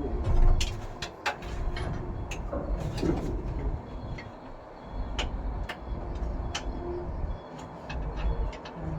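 Scattered sharp metallic clicks and knocks of tools and parts being handled during truck clutch repair work, over a low rumble.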